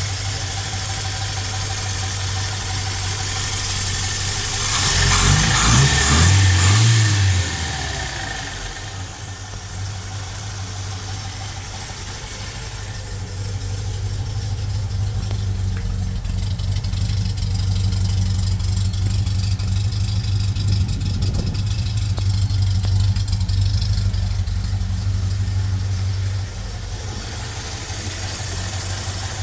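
Freshly rebuilt Volvo B18 1.8-litre four-cylinder engine running just after it has been brought to life. It idles steadily, revs up briefly about five seconds in, and runs a little louder from about thirteen seconds until it drops back near the end.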